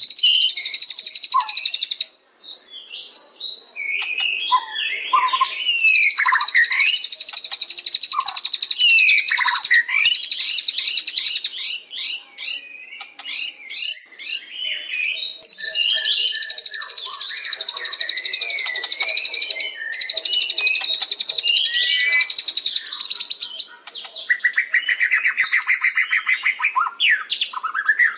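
White-rumped shama (murai batu) singing: a varied song of sliding whistles and chirps, alternating with long runs of very fast, high-pitched trilling that last a few seconds each. A lower, rapid trill comes in near the end.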